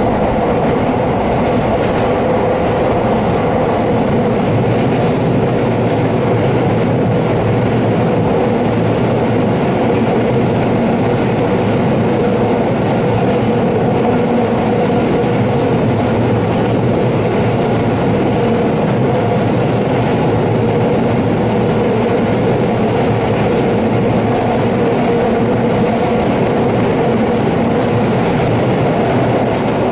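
Kobe Electric Railway train heard from inside the car, running steadily as it climbs a steep mountain grade: the hum of the traction motors and the rumble of wheels on rail. Faint high wheel squeals come and go from about four seconds in.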